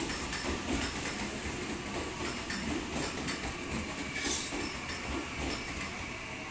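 Electric commuter trains running through a station: a steady rumble with scattered wheel clicks and a hiss of air.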